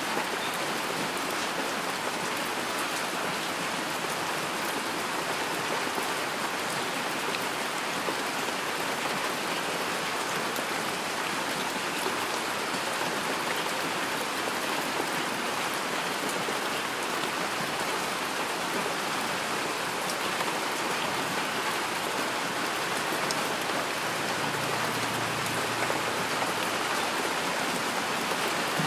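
Heavy rain falling steadily: a dense, even hiss of rain with a close patter of individual drops.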